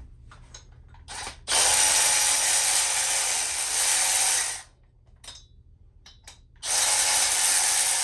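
A power ratchet running twice, about three seconds and then about two seconds, with a short blip just before the first run, as it spins bolts out of the Sportster Evolution's cylinder head.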